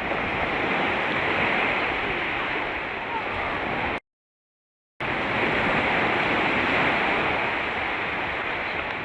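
Black Sea surf rushing steadily onto the shore. The sound cuts out completely for about a second midway, then resumes.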